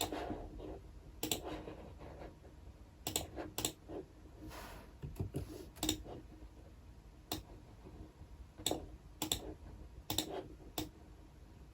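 Keys of a computer keyboard being typed on sparsely and irregularly: single keystrokes and quick pairs with pauses between them. A brief soft swish about four and a half seconds in.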